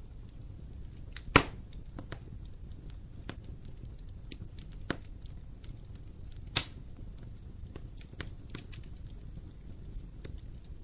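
Wood fire burning in a fireplace: a low steady rumble of flames with scattered small crackles and two loud pops of burning wood, one just over a second in and one about six and a half seconds in.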